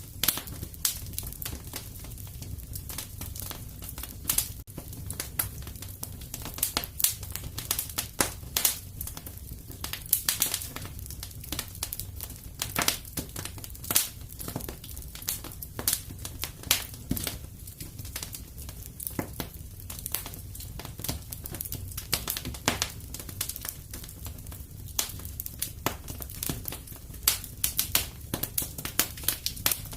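Wood fire crackling in a fireplace: rapid irregular snaps and pops over a steady low rumble of the flames.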